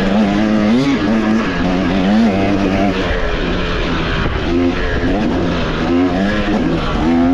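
Dirt bike engine revving while riding, its pitch rising and falling again and again with the throttle.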